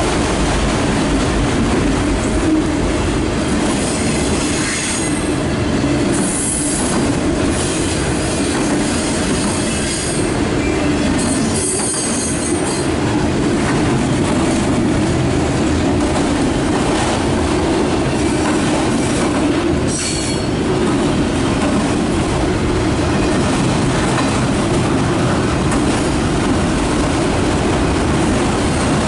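Loaded autorack freight cars rolling past at speed: a steady, loud rumble of steel wheels on the rails. Brief high wheel squeals rise over it a few times.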